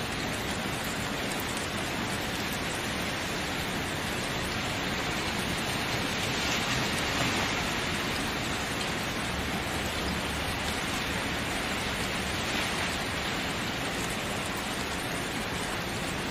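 Steady rain falling on a surface, an even hiss that swells a little about halfway through.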